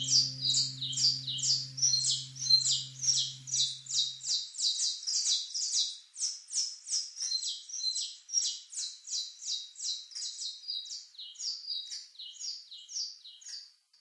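A bird singing a fast run of repeated high chirps, about three a second, that thins out and stops near the end. A held low musical note fades out in the first few seconds.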